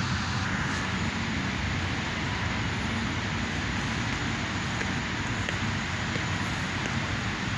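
Steady rumbling background noise with a hiss, unchanging throughout.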